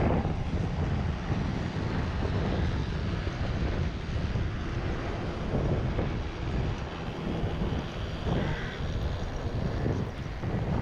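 Wind buffeting the microphone: a gusty, uneven low rumble with a steady hiss over it.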